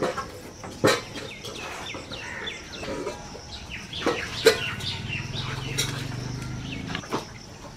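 Small birds chirping, with a few sharp clicks and snaps; the loudest come a little under a second in and about four and a half seconds in.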